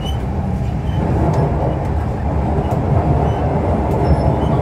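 Siemens C651 metro train running at speed, heard from inside the carriage: a steady low rumble of wheels and running gear.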